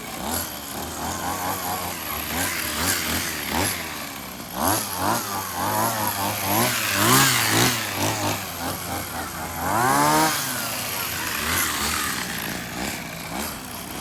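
Small two-stroke grass-trimmer engine revving up and down over and over, with one big rev rising and falling about ten seconds in.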